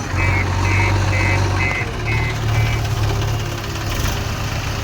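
Diesel engine of an earth-moving machine running steadily while its reversing alarm beeps about two and a half times a second. The beeping stops about two and a half seconds in and the engine runs on.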